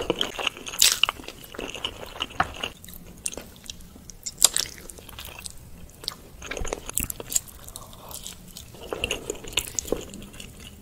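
Close-miked chewing and biting of soft-boiled eggs coated in spicy chili sauce, with irregular wet mouth clicks and smacks.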